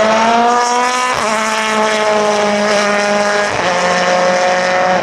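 Race car engine running hard past the track, its note climbing and then breaking sharply twice, about a second in and again near three and a half seconds: gear changes.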